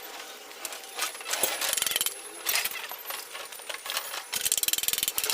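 Metal clinking and rapid runs of small clicks from hand tools and steel engine parts being handled, like a ratchet spanner being worked.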